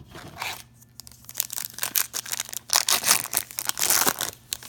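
A foil trading-card pack wrapper being torn open and crinkled: a couple of short crackles, then about three seconds of dense crinkling and tearing.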